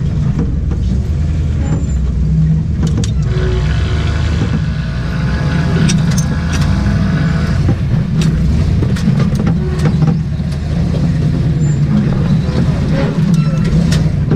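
Range Rover V8 engine running at low revs, heard from inside the cab as the truck crawls over rough ground, with scattered knocks and clatters from the body.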